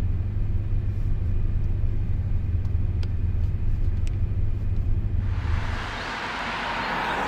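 Car engine rumbling steadily, low and even, then fading about five and a half seconds in as a broad hiss rises and fills the last couple of seconds.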